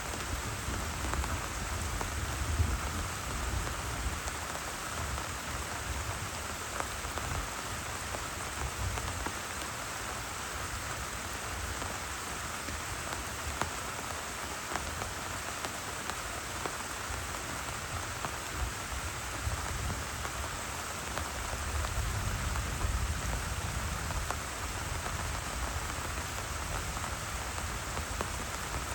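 Heavy rain falling steadily on tent fabric, with single drops ticking through it. A low rumble of thunder swells near the start and again about two-thirds of the way through.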